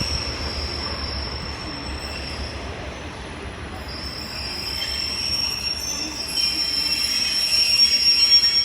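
Class 143 Pacer railbuses running slowly on the rails with a steady, high-pitched wheel squeal that grows louder in the second half, over a low rumble.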